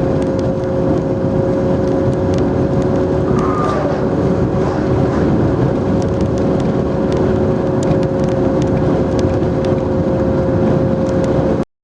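Engine noise droning at one steady pitch over a rough, noisy rumble, with a few faint clicks. It cuts off abruptly near the end.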